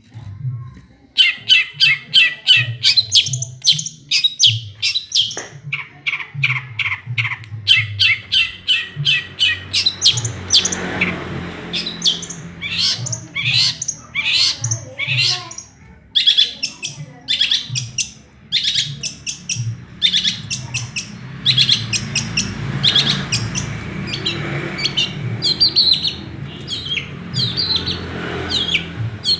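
Long-tailed shrike singing a fast, unbroken run of sharp chirps and trills, a medley of mimicked small-bird calls. It starts about a second in and keeps going.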